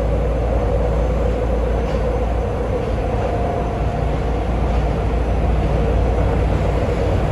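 Nagoya Subway Higashiyama Line 5050 series train, an unrenewed car, running steadily along the line: an even rumble of wheels on rail and running gear with no stops or changes. A faint short whine comes in about three seconds in.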